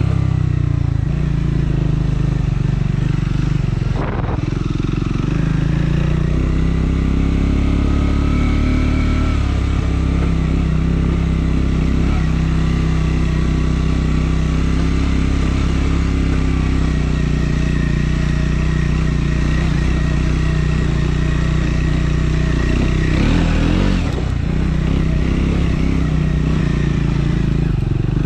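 Triumph Scrambler 400 X's single-cylinder engine running under way, its note holding fairly steady with small shifts in pitch. The note breaks off briefly twice, about four seconds in and again some twenty seconds later.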